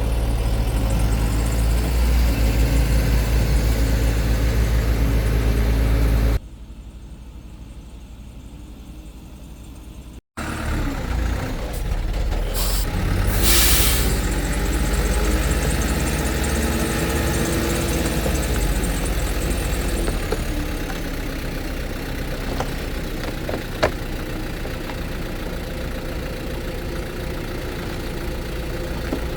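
Heavy diesel engine of a construction vehicle running steadily. It drops to a quieter stretch about six seconds in and cuts out briefly around ten seconds, then returns with some rise and fall in pitch. A short hiss comes a few seconds after it returns.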